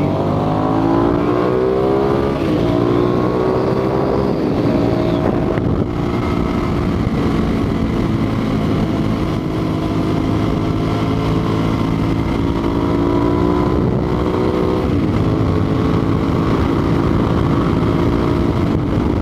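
Motorcycle engine pulling hard, its revs climbing and dropping with quick upshifts twice in the first five seconds, then holding a steady cruise before another climb and shift about fifteen seconds in. Steady wind noise runs underneath.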